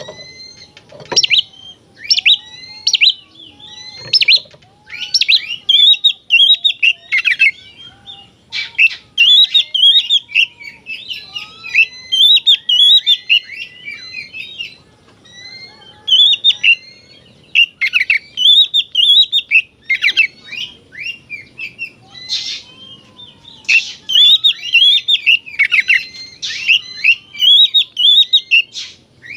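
Oriental magpie-robin (kacer) singing loudly and continuously in varied phrases of quick, sweeping whistles and chirps, with a couple of short pauses.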